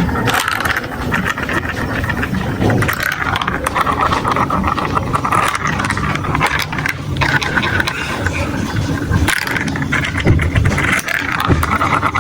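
Marbles rolling and clattering down a plastic building-block marble run: a continuous dense rattle of small clicks over a low rolling rumble.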